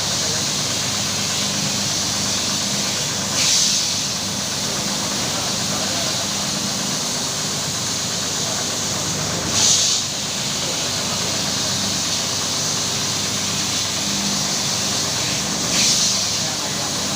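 Carpet washing machine running steadily, with a low hum and a constant hiss, and a brief louder rush of hiss about every six seconds.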